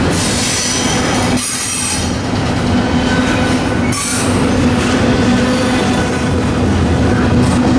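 CSX double-stack intermodal freight train passing close by, its cars running over the rails in a steady loud rumble. A steady tone sits over it, and it eases for a moment about a second and a half in.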